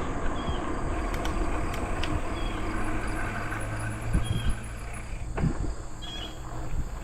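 Wind rush and tyre noise from a bicycle riding at about 12 mph on a trail, with a thin steady insect trill above it and a few light clicks.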